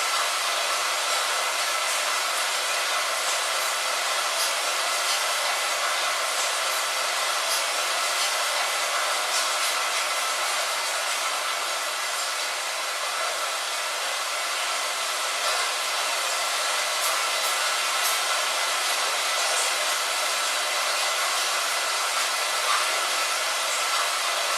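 Steady rain, a dense even hiss with faint individual drop ticks scattered through it.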